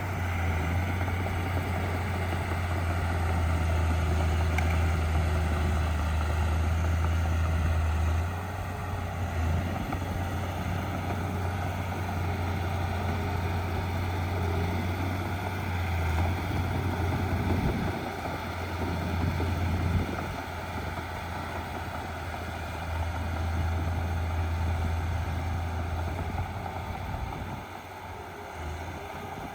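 Heavy diesel earthmoving machinery running: a deep engine drone that rises and falls as the machines work, louder in the first eight seconds and easing off near the end.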